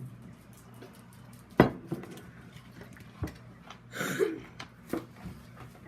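Several sharp knocks and clinks of objects handled on a hard surface, the loudest about a second and a half in, with a short rasping burst around four seconds, over a low steady hum.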